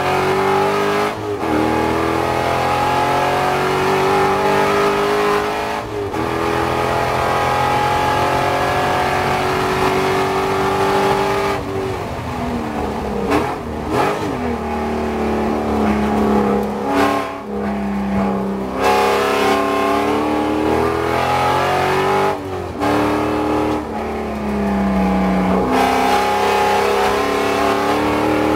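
C5 Corvette Z06's LS6 V8 under racing load, heard from inside the cockpit. The engine note climbs steadily in pitch and drops back sharply several times at gear changes, with a choppy stretch of lifting and downshifting partway through.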